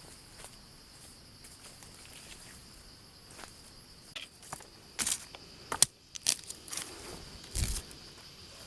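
Insects shrilling steadily in a high, even tone. From about halfway through there are several sharp snaps and rustles, then a dull thump near the end.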